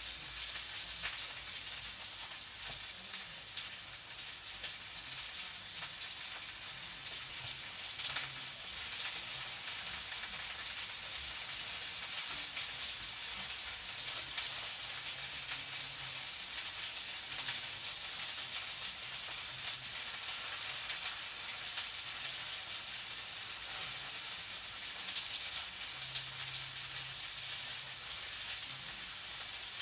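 Food sizzling in a frying pan: a steady high hiss with fine crackling pops. A faint low hum sits underneath, coming and going.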